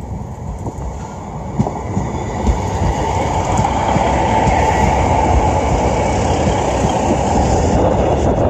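Diesel multiple unit passenger train approaching and passing close by, its running noise building to a steady, loud rumble, with a few clacks from the wheels over the rail joints as it nears.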